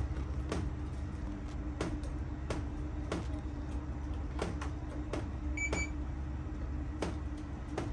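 A steady low hum with a light click repeating about every two-thirds of a second, and one short high electronic beep about six seconds in from a hotel door's key-card lock that is not letting the card in.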